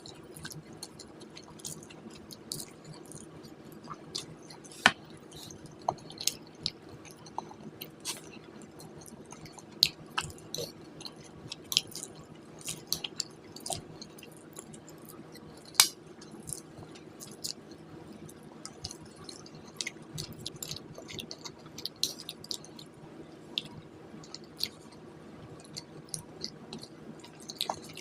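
A person chewing food close to the microphone, with many short sharp wet mouth clicks at irregular intervals over a faint steady hum.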